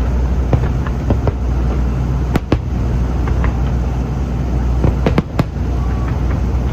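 Aerial fireworks bursting in an irregular series of sharp bangs, with a louder pair about two and a half seconds in and another about five seconds in, over a steady low rumble.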